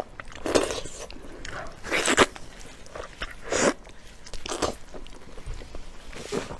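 Close-miked eating sounds: a person biting and chewing, with about five louder wet mouth noises spaced a second or so apart.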